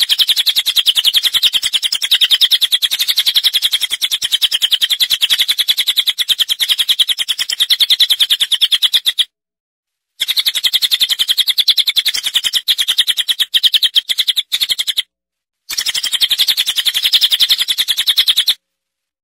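A small songbird's fast, rattling trill of evenly spaced notes, high-pitched, in three long bouts that each cut off abruptly into dead silence, as in an edited, looped birdsong recording.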